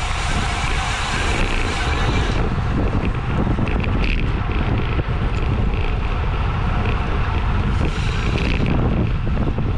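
Wind rushing and buffeting over the camera microphone of a road bike riding at race speed: a loud, steady rumble.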